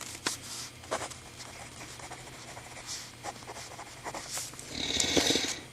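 Scattered light clicks and rustles of mechanical pencils being handled, with a louder breathy rush near the end.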